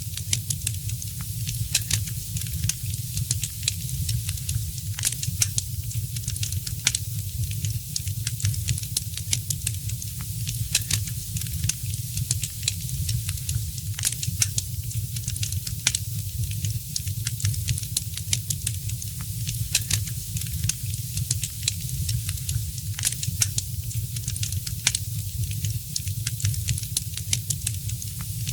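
Wood fire crackling in a fireplace: frequent sharp pops and snaps at irregular intervals over a steady low rumble and soft hiss.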